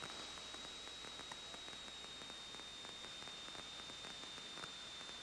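Faint static hiss with a steady high-pitched whine from the aircraft's intercom and radio audio feed, with a few faint crackles; the engine itself is not heard.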